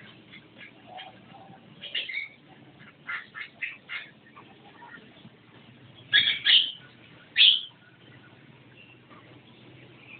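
Javan myna calling in short bursts: a few calls about two seconds in, a quick run of four around three to four seconds, and the three loudest calls between six and seven and a half seconds.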